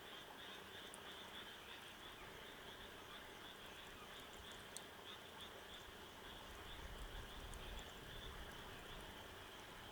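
Faint chorus of calling animals: a continuous, evenly pulsing high trill, with a few faint ticks and a low rumble about seven seconds in.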